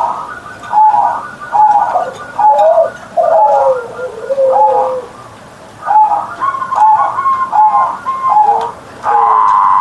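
Zebra dove (perkutut) cooing its song: a run of short repeated coos about one a second, a brief pause partway through, then more coos. Near the end comes a longer rolling note.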